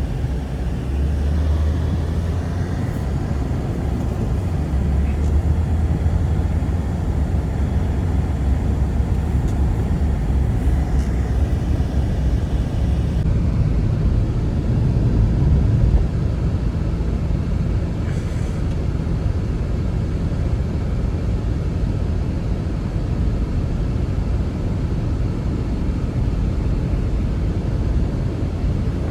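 Strong steady wind, a deep rumble with a hiss over it, as in a blizzard.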